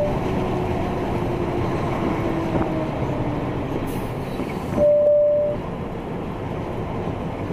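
Steady road and engine rumble of a vehicle driving, with one short, steady horn blast about five seconds in.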